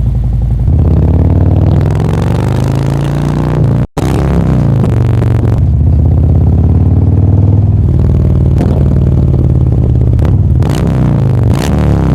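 Harley-Davidson Milwaukee-Eight V-twin running through Khrome Werks 4.5-inch true dual exhaust pipes, revved up and down again and again in a deep rumble. It cuts out abruptly for an instant about four seconds in.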